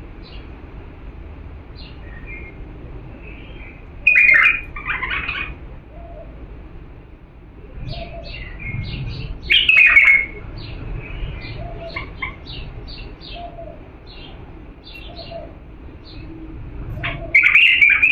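A bulbul of the Diyala strain singing. Three loud, rich song phrases come about every six seconds, with short chirps in between. This is the kind of clean song kept as a tutor recording for teaching young bulbuls.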